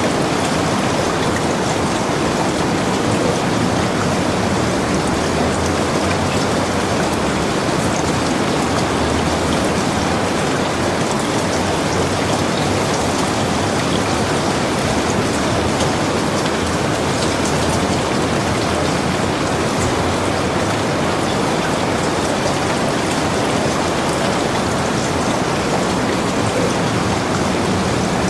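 Steady heavy rain pattering on surfaces, an even hiss with fine scattered drop ticks and no let-up.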